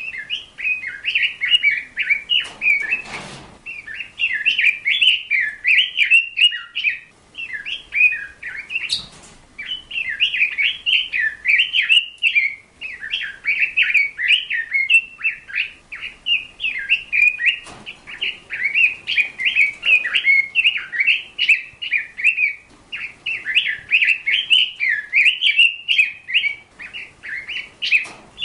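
A bird chirping and twittering almost without pause, a fast run of warbled notes.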